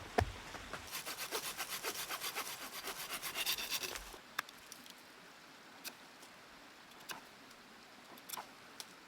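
Hand saw cutting through wood with quick, even strokes, about five a second, for some three seconds, then stopping; a few light cracks and clicks follow.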